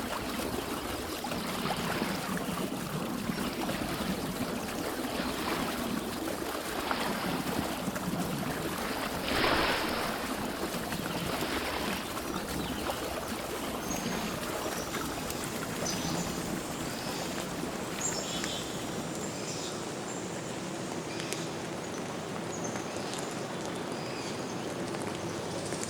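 Rushing water running steadily, with surges of noise that swell and fade in the first half, the strongest about nine seconds in. In the second half, short high bird chirps sound over the water.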